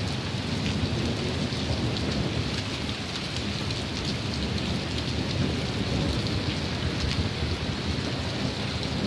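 Heavy rain pouring steadily, with thunder rumbling low and continuously underneath.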